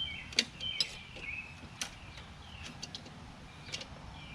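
Sharp little clicks and taps from hand work, hooking the spring of a mower's self-propel control cable into its hole, with a bird chirping repeatedly at the same time.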